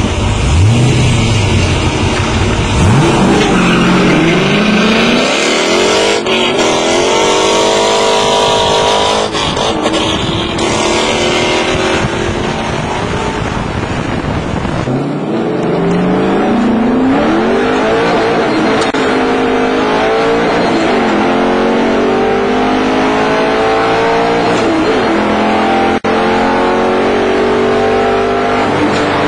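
Car engine under hard acceleration heard from inside the cabin, revs climbing in pitch and dropping back at each upshift, several times over.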